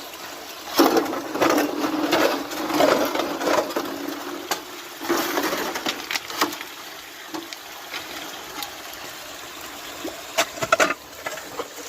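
Stones being washed by hand in stream water: splashing and sloshing in bursts, with a few sharp knocks near the end.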